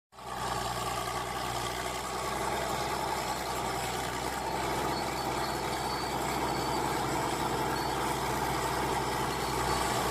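Steady vehicle engine drone, like a small truck running evenly, starting abruptly and holding the same pitch and level throughout.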